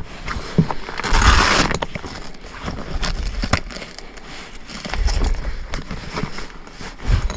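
Rummaging through stored parts and containers while searching for fuses: scattered clicks and knocks of small items being moved, with a rustling scrape about a second in and low handling bumps later.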